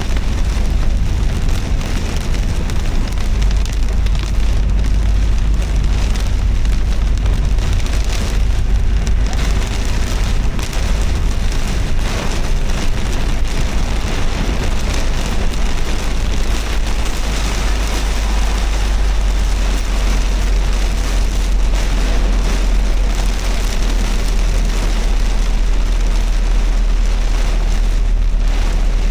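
Rain and tyres hissing on a wet road, over the steady low rumble of a car driving.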